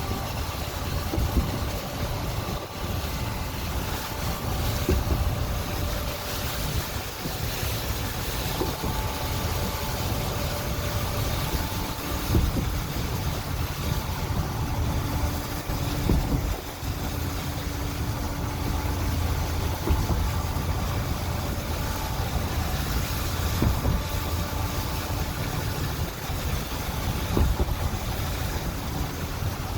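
Tropical storm wind gusting, rumbling and buffeting against the microphone, rising and falling unevenly.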